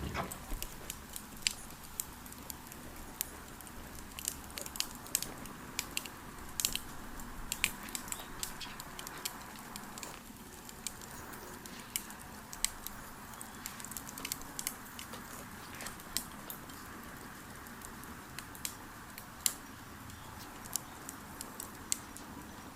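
Campfire crackling, with irregular sharp snaps and pops over a steady soft hiss.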